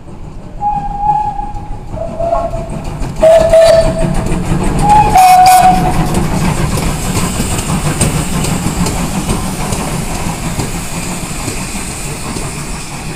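Steam locomotive whistle sounding in a series of short blasts at slightly varying pitch, followed from about five seconds in by a loud hiss of escaping steam that slowly dies away.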